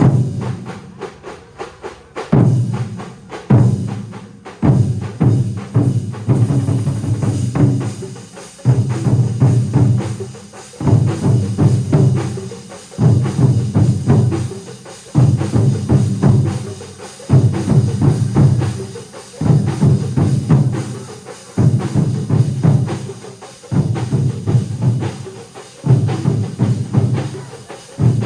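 Massed drumming by a large percussion troupe: many drums struck together in fast, dense strokes, in loud phrases that break off and restart about every two seconds.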